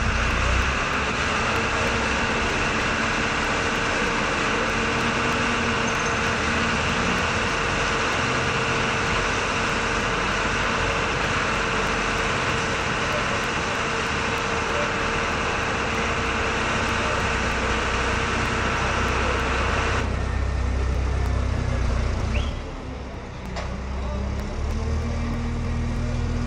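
Steady engine or machinery noise with a constant hum. It drops and changes character about twenty seconds in, then picks up again near the end.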